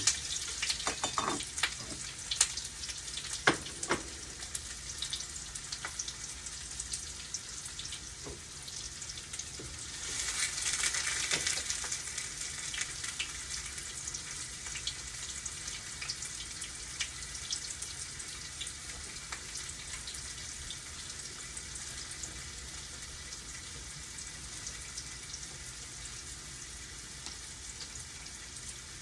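Tofu pieces frying in hot oil in a pan: a steady sizzle with scattered crackles, swelling for a moment about ten seconds in. A few sharp knocks come near the start.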